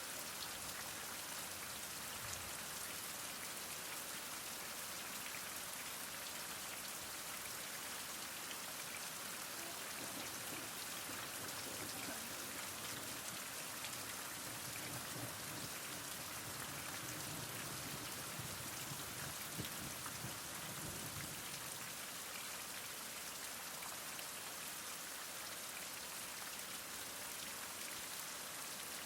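Steady heavy rain: an even hiss of many drops falling and spattering on surfaces, with a faint low rumble underneath for a stretch in the middle.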